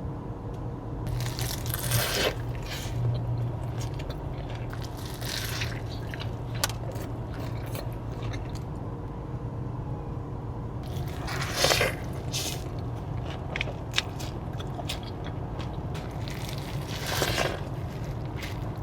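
A person biting into and chewing a crunchy burger up close, with loud crunching bites every few seconds and smaller wet clicks and chews between them.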